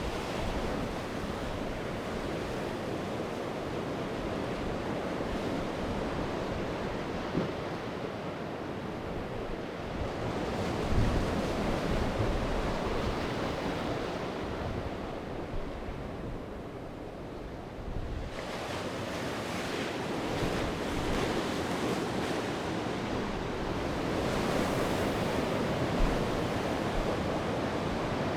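Sea waves breaking and washing up the shore in a continuous rush that swells and eases. A wave surges in about ten seconds in, another arrives suddenly a few seconds after a quieter lull, and a third swells near the end.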